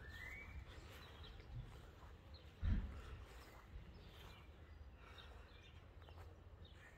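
Faint garden ambience with scattered bird chirps, including a short rising whistle at the start, over a low rumble. A brief low thump about two and a half seconds in is the loudest sound.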